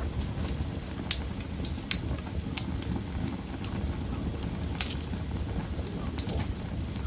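Wood fire burning in a fireplace: a steady low rumble of the flames with irregular sharp crackles and pops, the loudest pops about a second in and nearly five seconds in.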